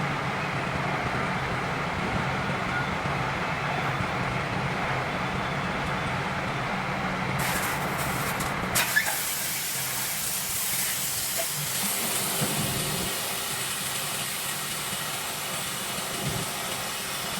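Steady low machine hum; about nine seconds in, a loud, steady hiss of compressed air starts and continues, with the hum fading under it.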